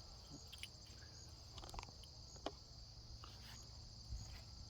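Faint, steady high-pitched trilling of crickets, with a few soft scattered clicks.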